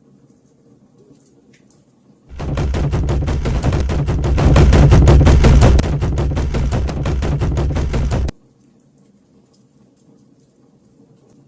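A sudden, very loud burst of rapid, densely packed cracks over a heavy low rumble, starting about two seconds in and cutting off abruptly six seconds later, loudest in the middle. Before and after it there is only the faint crackle of a campfire.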